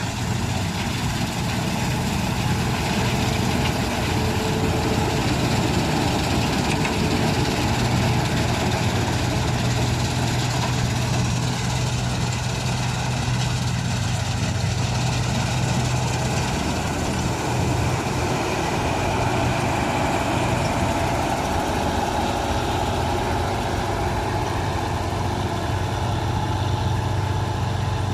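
Combine harvester running steadily, a low, even engine hum that holds the same speed throughout.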